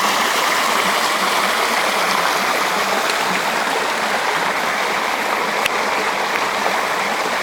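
River water running fast over rocks after heavy rain, a steady rushing flow.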